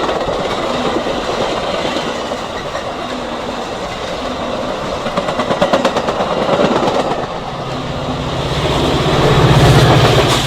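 Metra express commuter train passing through the station at speed without stopping, its wheels clicking rapidly over the rail joints. Near the end a deep, steady diesel locomotive engine drone builds as the locomotive goes by.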